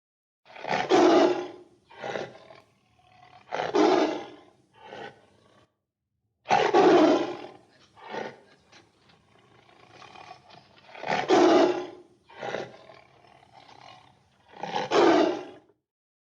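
Tiger roaring over and over: five loud roars, each about a second long, with shorter calls and quieter rumbling between them. A pause of about a second falls a little before halfway, and the roaring stops shortly before the end.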